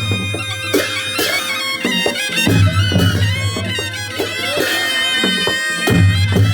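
Nepali panche baja band playing: a reedy shehnai melody over drum and cymbal strokes, with a low, deep note swelling up twice.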